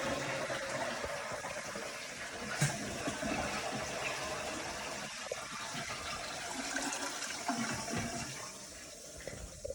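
Toilet flushing, a steady rush of water that slowly gets quieter and dies away near the end. The fixtures are being run to purge air from the well water lines after a new bladder tank was installed.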